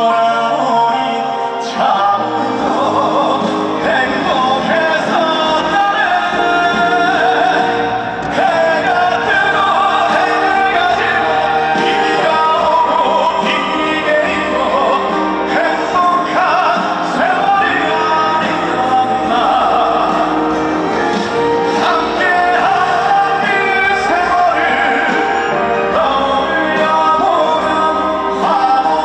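Male vocalist singing a gentle trot ballad live, with full band accompaniment; the voice carries a strong vibrato.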